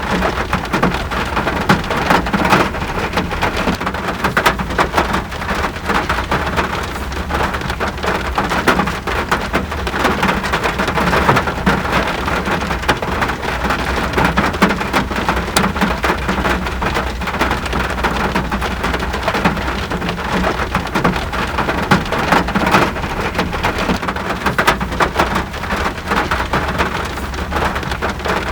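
Steady rain falling, a dense mass of drops striking surfaces, with many individual drop taps heard throughout.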